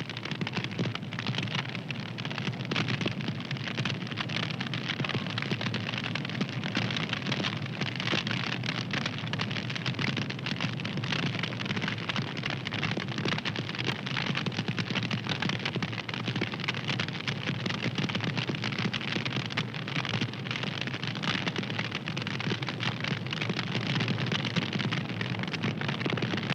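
Wood fire crackling steadily, a dense run of small pops and snaps over a low rush of flame.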